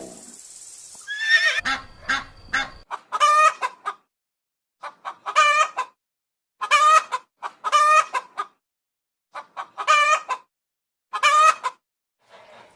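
An animal calling over and over: short, pitched calls with a wavering pitch, one roughly every second, with brief silences between.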